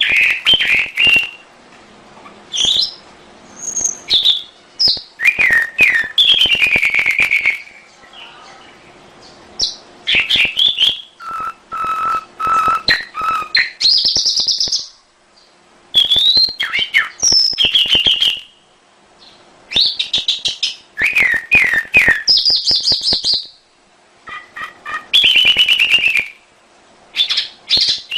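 Domestic canary singing: bursts of fast rolling trills, quick gliding whistles and chirps, phrase after phrase with short pauses between.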